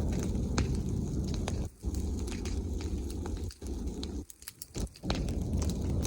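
Bonfire of branches and leaves burning, with scattered sharp crackles and pops over a low rumble that cuts out briefly a few times.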